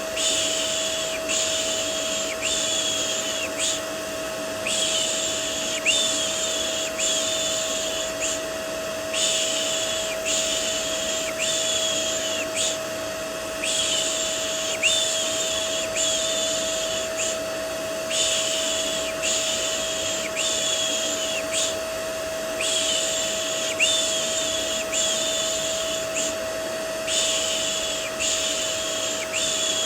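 Vacuum cleaner white noise with a steady motor whine, overlaid with a rhythmic 'shh' shushing for soothing a baby: groups of four or five shushes about a second apart, with a short pause after each group.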